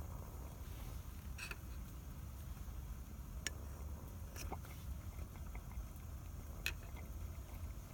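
Wood campfire crackling: a few sparse, sharp pops from the burning wood, about four in all, over a steady low rumble.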